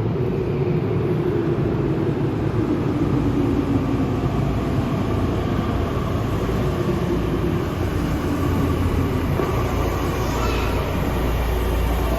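Tokyu Ikegami Line three-car electric train running at an underground platform: a steady low rumble with a faint whine that falls slightly in pitch over the first few seconds.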